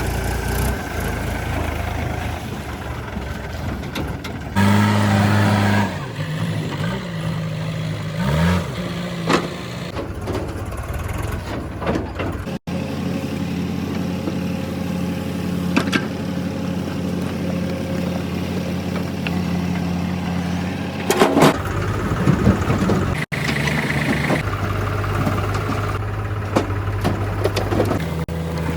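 Heavy diesel engine of a tractor or backhoe loader running. It revs up and down at times, with a few loud clanks, and its sound changes abruptly twice.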